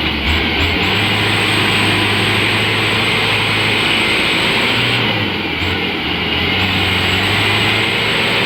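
Mitsubishi Canter light truck's diesel engine running hard at high revs as the truck strains to climb a steep incline, a steady loud drone with a thin high whine that cuts out for a moment about five seconds in.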